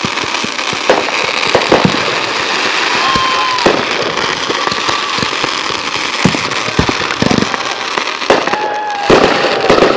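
Consumer fireworks going off one after another: a dense run of bangs and crackling, with short whistles from whistling fireworks about three seconds in, at five seconds, and again near the end.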